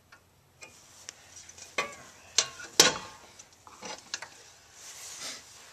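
Several sharp clicks and knocks from parts of a Nelson automatic horse waterer being handled, over water trickling into its bowl as it fills, with a short rush of noise near the end.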